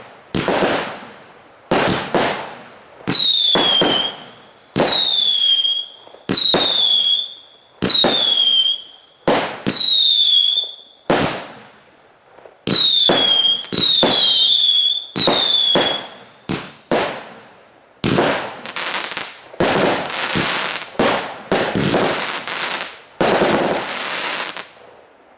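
TROPIC TB4 'Wolf' 100-shot firework battery (cake) firing a rapid string of shots. Many of the shots carry a short whistle that falls in pitch. About two-thirds of the way in, the firing turns into a denser volley of crackling bangs that dies away near the end.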